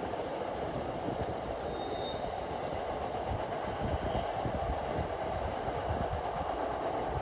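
NJ Transit commuter train of single-level coaches rolling away on curved track: a steady rumble of wheels on rail. A faint high wheel squeal comes in briefly about two to three seconds in.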